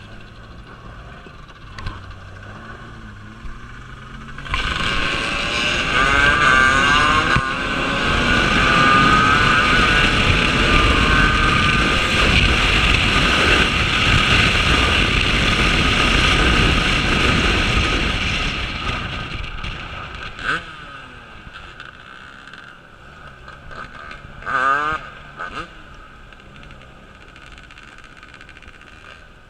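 Off-road vehicle engines running and revving. The engine noise swells loud about four seconds in, with rising revs, holds for over ten seconds, then fades. Another short burst of revving comes near the end.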